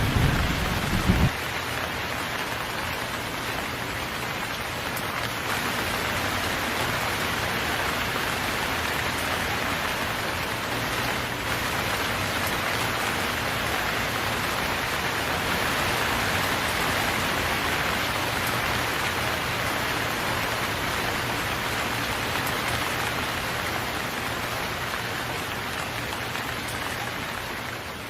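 Steady rain falling, with a low thunder rumble in the first second or so.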